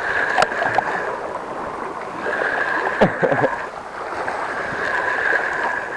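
Sea water washing and sloshing around rocks, with a high hiss that comes and goes in stretches of about a second and a few sharp knocks, one about halfway through.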